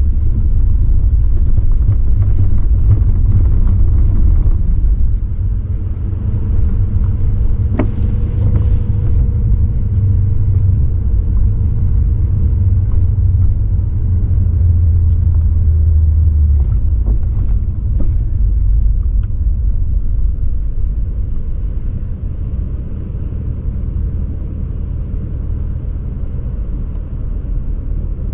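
BMW 540i's 4.4-litre V8 exhaust rumbling low as the car drives, its level easing slightly about five seconds in. A couple of sharp clicks break through in the middle.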